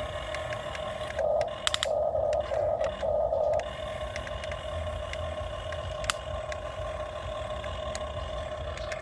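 Excavator working: a steady mechanical whine that swells louder several times in the first few seconds, with scattered clicks and knocks.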